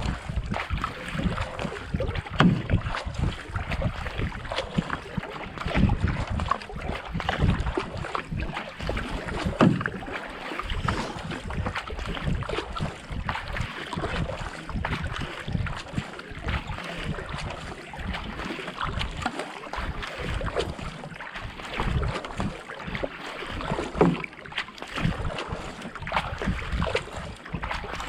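Kayak paddle blades dipping and splashing stroke after stroke, with water rushing along the hull and wind buffeting the microphone.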